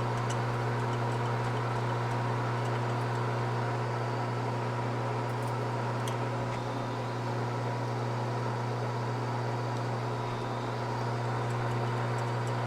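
Metal lathe running steadily with a drill bit boring a pilot hole through metal sleeve stock, an even motor hum that doesn't change.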